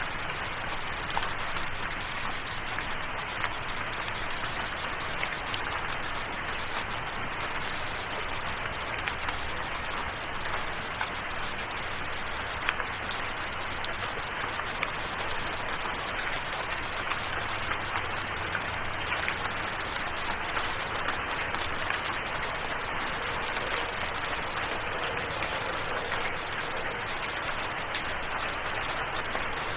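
Steady rain with a dense patter of individual drops ticking on a surface, even and unbroken throughout.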